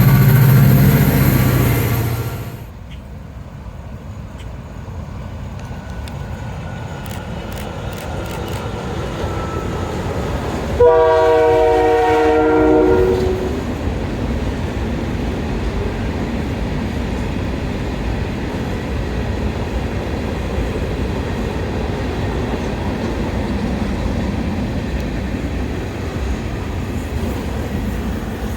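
Freight train locomotive horn sounding one long chord about eleven seconds in, over the steady rumble of the train running. A louder passage at the start cuts off abruptly after about two seconds.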